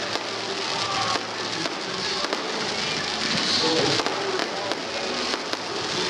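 Fireworks display going off: a dense, continuous crackle with many sharp bangs at irregular intervals, over music playing.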